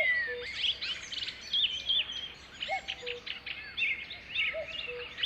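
Several birds singing and calling at once, a dense mix of quick chirps and whistled notes. A short low note recurs about every two seconds beneath them.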